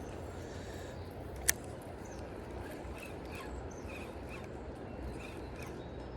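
Steady rushing of river water, with a small bird chirping in short repeated notes from about halfway in, and one sharp click about a second and a half in.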